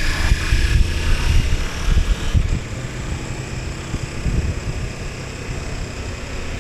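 KTM 1290 Super Adventure S's V-twin engine running on the move, with wind noise on the microphone. Louder for the first two seconds or so, then quieter.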